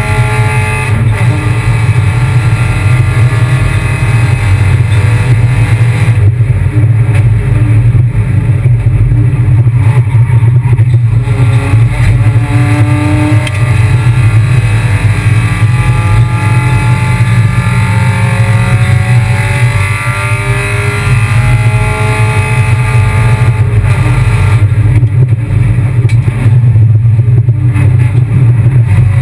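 Kia Picanto race car engine under hard throttle, its note climbing slowly and then dropping back several times as it goes up through the gears and lifts off.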